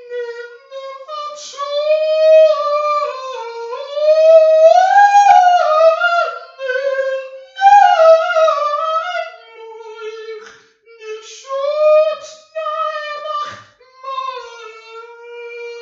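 A solo high voice singing unaccompanied, long held and sliding notes, with short breaks between phrases.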